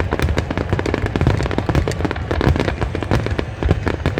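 Fireworks finale barrage: shell bursts going off in rapid, overlapping succession, many bangs every second over a continuous rumble.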